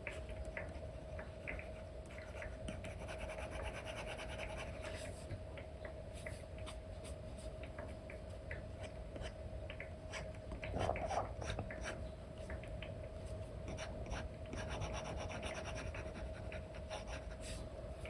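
Apple Pencil 2 with an Elecom nib drawing on a paper-like screen film over an iPad: scratchy brush strokes and many light taps of the tip on the glass. A steady faint hum runs underneath, and about eleven seconds in there is one louder rub.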